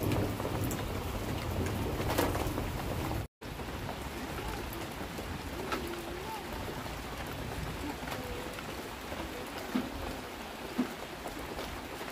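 Steady rain falling, an even hiss with a low rumble of thunder dying away over the first three seconds. The sound cuts out for a moment a little over three seconds in, then the rain carries on.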